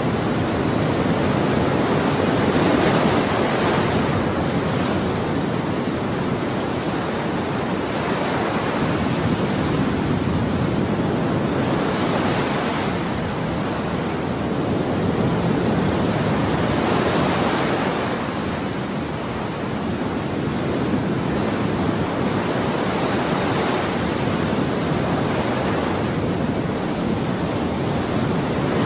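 Ocean waves breaking and washing on a shore: a continuous rush of surf that swells and eases every few seconds.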